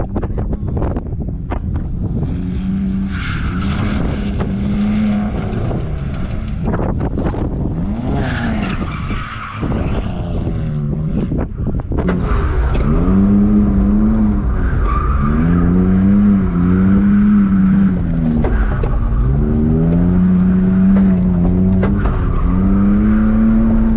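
BMW E46 drift car's engine revving up and falling back in repeated surges as it slides, with tires squealing; the revving gets louder and more regular about halfway through.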